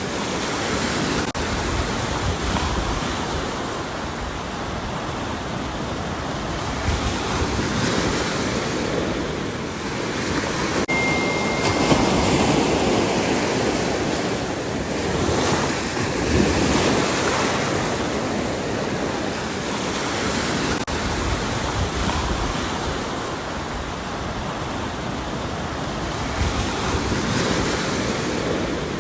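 Ocean waves breaking and washing on a shore, a steady surf that swells and ebbs every few seconds.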